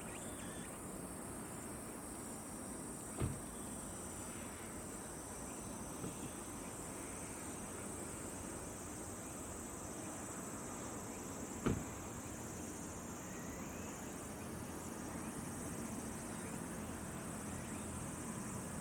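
Steady high-pitched chorus of insects over an even background hiss, broken by two brief sharp knocks, about three seconds in and again near twelve seconds.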